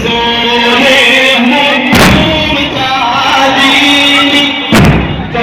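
A loud devotional lament chant (latmiya) sung with a strong, wavering melody. Two heavy thumps cut across it, one about two seconds in and another near the end.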